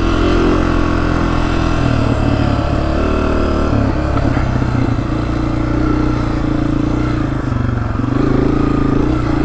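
Honda CRF250F dirt bike's single-cylinder four-stroke engine running under the rider's throttle through a rutted turn. The revs rise and fall several times in the first few seconds, then hold steadier.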